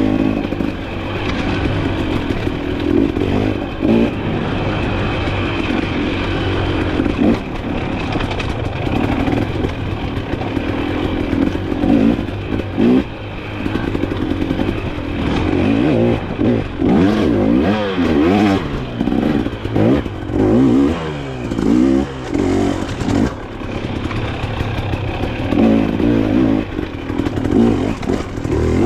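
Dirt bike engine revving up and down while riding an enduro trail, its pitch rising and falling again and again as the throttle is worked, with scattered knocks and rattles from the bike.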